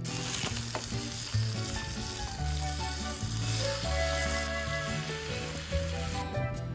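Food sizzling as it fries in a hot pan: a steady crackling hiss that stops shortly before the end, over background music.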